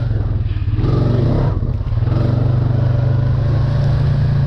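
Off-road vehicle engine running steadily as it drives through mud, with a brief dip in the sound about a second and a half in.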